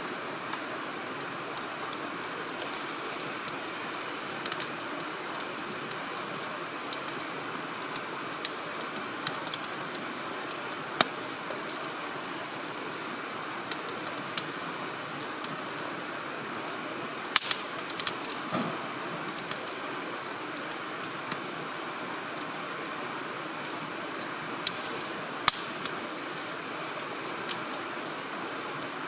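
Wood campfire burning: a steady hiss with irregular sharp crackles and pops, including a cluster of louder pops a little past the middle and another near the end.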